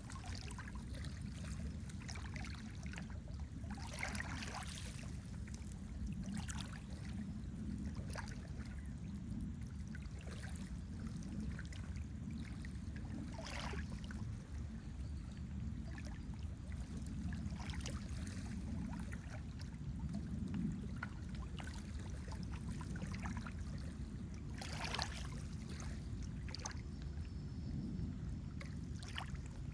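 Lake water lapping and splashing at the shore: a steady low wash with scattered small splashes and drips.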